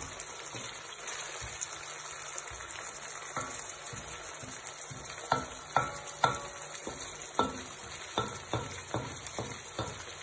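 Onion, carrot and frozen chopped bell pepper sizzling in hot oil in a pan, a steady hiss, with a utensil knocking and scraping against the pan as the vegetables are stirred, the knocks coming in a run from about three seconds in.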